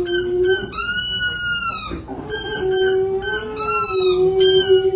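Dog howling in a run of short, high pitched notes, with one longer arching howl about a second in, over a steady held tone.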